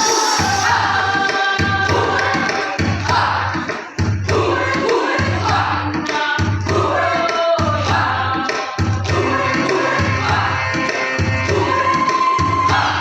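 A choir singing with music accompaniment and a steady low beat underneath.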